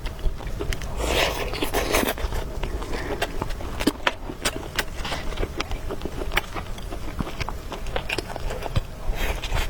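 Close-miked eating: a person chewing and biting food, with many sharp clicks and crunches throughout. A longer hissing sound comes about a second in and again near the end.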